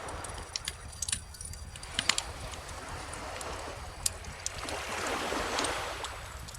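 Wood bonfire crackling with sharp pops, the loudest pair about two seconds in, over the wash of calm ocean waves; a wave swells in and recedes around five to six seconds in.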